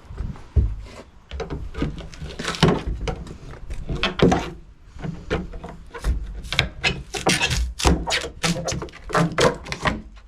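Crowbar prying and knocking at a freezer's sheet-metal panel: irregular knocks and scrapes, coming thicker in the second half.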